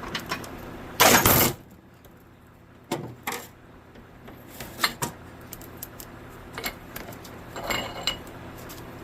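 Metal parts of a 4L60E automatic transmission clinking and knocking as it is taken apart by hand, with one loud half-second rush of noise about a second in and a steady low hum underneath.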